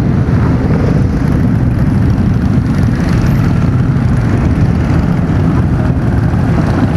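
Motorcycle running steadily at road speed, a loud, even low rumble with no change in pitch.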